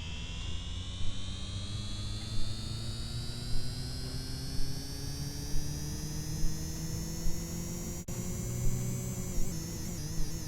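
Washing machine motor whining as the drum speeds up on a spin, the pitch rising steadily and then levelling off and wavering near the end, with a low hum and a soft knock about once a second.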